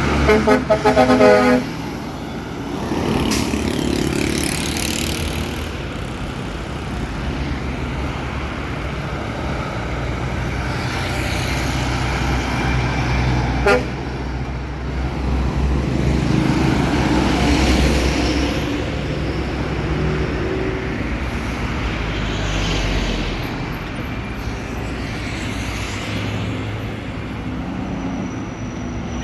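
A truck driving along a road, its engine and road noise running steadily. A horn sounds in quick pulses for about a second and a half at the start, the loudest thing heard.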